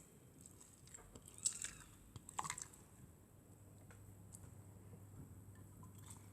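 Slime being squeezed and pressed by hand, giving faint wet squishing with small clusters of crackling clicks and pops, the strongest about one and a half and two and a half seconds in.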